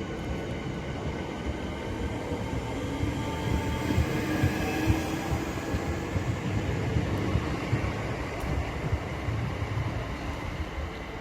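Southeastern Class 465/466 Networker electric multiple unit pulling out of the station: a rumble of wheels and running gear with a faint whine of steady tones above it. It grows louder to a peak about halfway through, then fades as the train draws away.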